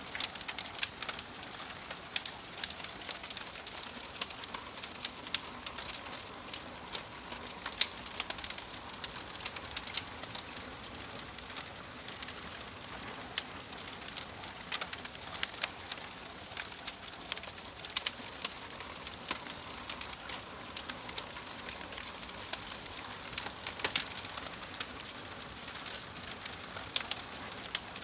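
Wood fire crackling in a fireplace: a steady hiss with frequent sharp pops and crackles.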